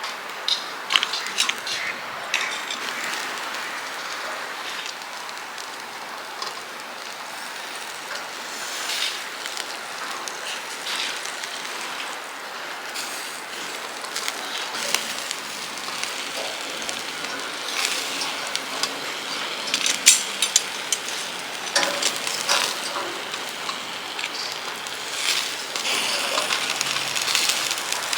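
Food sizzling in a hot pan or on a grill, a steady hiss with scattered clicks of cooking utensils.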